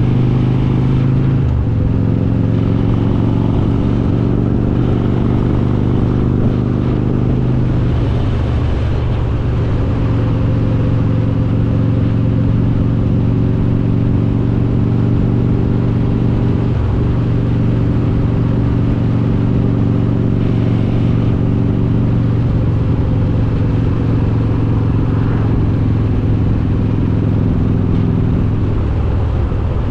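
Harley-Davidson Road King's S&S 95-cubic-inch V-twin with Super Stock heads running steadily at riding speed. The engine note steps down in pitch about a second and a half in and again near the end.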